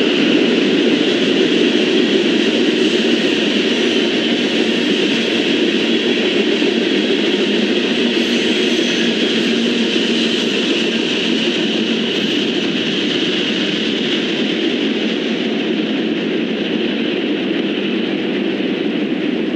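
Freight train rolling past and moving away: a steady rumble and hiss of wheels on rail that slowly fades.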